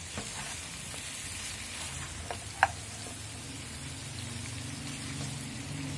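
Mutton sizzling in hot oil in a karahi while it is stirred and turned over with a slotted spatula. A sharp knock of the spatula on the pan comes a little past halfway. A low hum sets in from about two seconds in.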